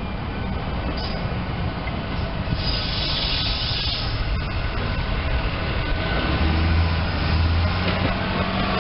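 Three-car SEPTA Silverliner II electric multiple-unit train departing and running closer, its rumble growing steadily louder. A high hiss comes about two and a half seconds in and lasts about a second and a half. A low hum builds in the last couple of seconds as the lead car nears.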